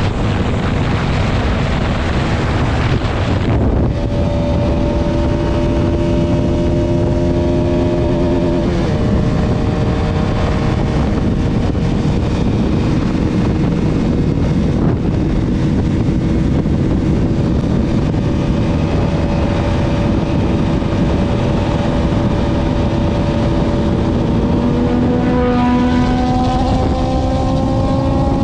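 Bajaj Pulsar RS200's single-cylinder engine running hard at high speed under heavy wind rush on the microphone. The engine note drops a step in pitch about nine seconds in, holds steady, then climbs in pitch over the last few seconds.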